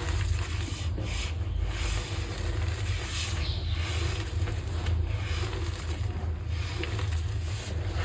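Green gym chalk being crushed and rubbed by hand: dry, gritty rubbing in irregular strokes about once a second, over a steady low hum.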